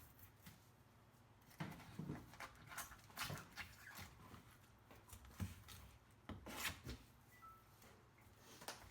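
Scattered short knocks, taps and scrapes from a whole sea bass and a knife being handled during cleaning, irregular and at varying strength, mostly between about 2 and 7 seconds in.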